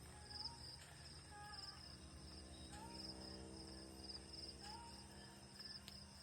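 Crickets chirping faintly, in short pulsed chirps repeated about once or twice a second.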